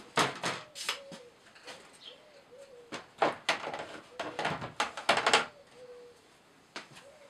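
Two spells of knocking and scraping handling noise. Behind them, a bird coos again and again in short, low, pigeon-like calls.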